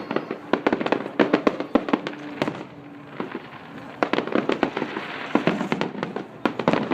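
Fireworks going off in rapid succession, many sharp crackling bangs close together. They thin out about two and a half seconds in and come thick again about a second and a half later.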